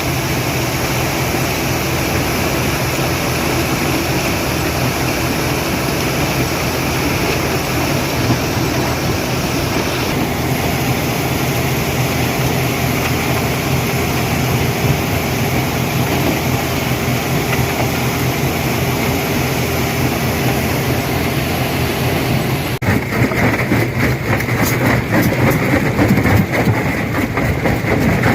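Stone crusher running steadily with a low machine hum. About 23 seconds in, the sound switches abruptly to louder, rapid knocking and crunching of rock being broken.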